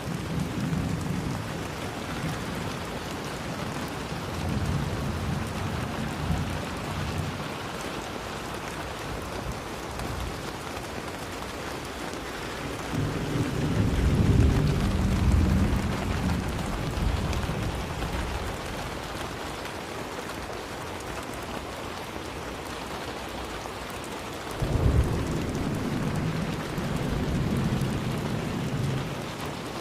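Steady rain hissing, with rolls of thunder rumbling under it: a couple of low rolls in the first seven seconds, the loudest and longest about 13 seconds in, and another that starts suddenly about 25 seconds in.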